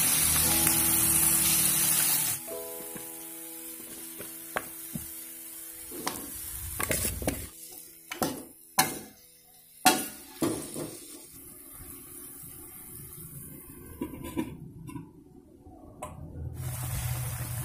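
Spices sizzling loudly in hot oil in a wok, the sizzle dying down about two seconds in as liquid is poured in. This is followed by a series of sharp knocks and clatters of a metal ladle and chicken pieces against the wok.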